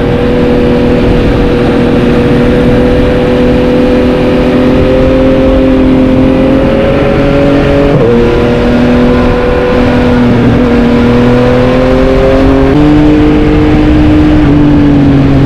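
Yamaha MT-09's three-cylinder engine running loud and steady under throttle, its pitch climbing slowly. The revs dip briefly about eight seconds in and step up near the end, over heavy wind and road rush.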